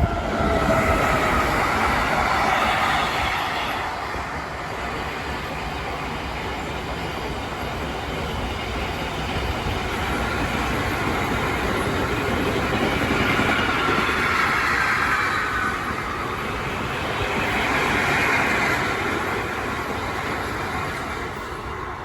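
Freight train passing close by, its wagons' wheels rumbling and clattering along the rails. A high screech of steel wheels on the rails swells and fades several times.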